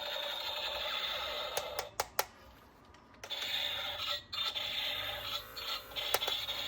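Plastic toy parts and packaging being handled, rubbing and scraping, with a few sharp clicks and a short lull about halfway through.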